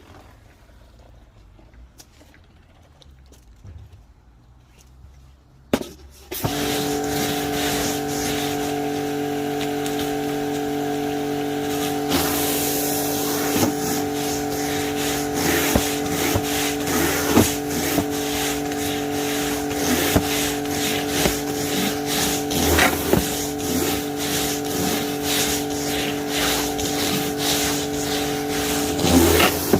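Wilks USA RX 550i electric pressure washer starting up with a click about six seconds in, then running steadily with a motor-and-pump hum while its water jet sprays with a hiss. Before it starts there are only a few faint clicks.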